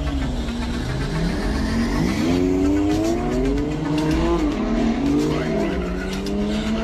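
Several sports car engines revving hard and accelerating, their pitch climbing in steps through the gear changes and dropping back, with more than one car sounding at once.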